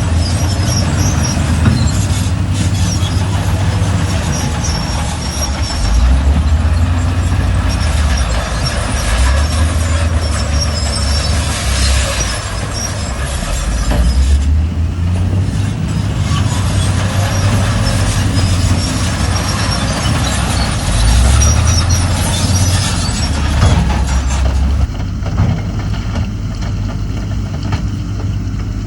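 Heavy diesel engines of earthmoving machinery running under load, revving up and down again and again, with a hissing, squeaky clatter over them. In the last few seconds the sound turns steadier and quieter.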